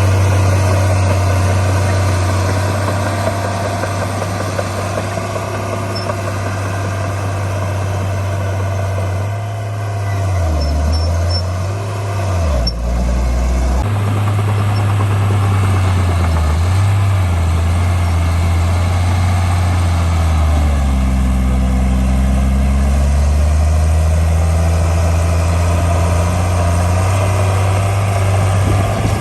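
Heavy diesel engine of earthmoving machinery running, a deep steady hum whose pitch dips and climbs back twice as the engine speed changes.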